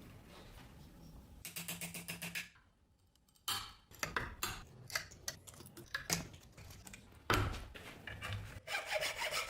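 Irregular hand scraping and rubbing strokes on a rusty axe, with a quick run of short strokes, a brief dead-silent break, then slower scrapes, one of them longer near the end.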